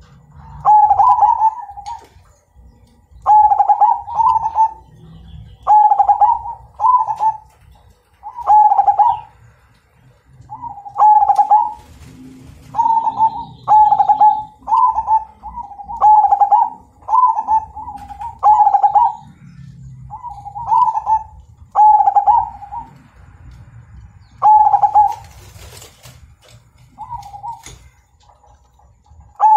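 Zebra dove (perkutut) cooing its song: a long run of loud, full phrases, one every second or two, with a few short pauses.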